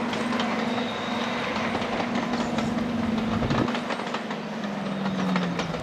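Heritage diesel locomotive and train running on rails: a steady engine note that drops slightly in pitch near the end, over wheel and rail noise with scattered clicks.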